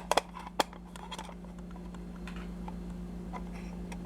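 Sharp clicks and light taps of small toy models being picked up and handled, loudest in the first second and then fainter, over a steady low electrical hum.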